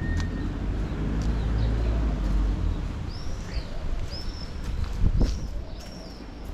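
Bird calls: short, high chirps that rise and fall, repeating about once a second through the second half. A low rumble fills the first few seconds and then fades.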